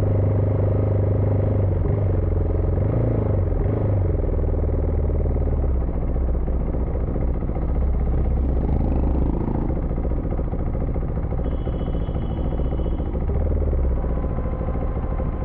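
Husqvarna Vitpilen 401's single-cylinder engine running under way, its pitch rising and falling a few times in the first four seconds, then running more evenly under steady wind and road noise.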